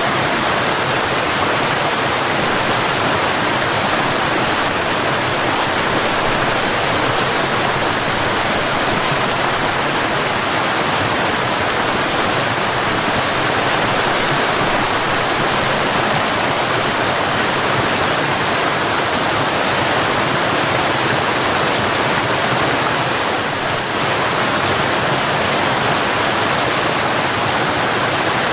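Fast-flowing water rushing steadily and evenly, the continuous sound of a waterfall or cascading river.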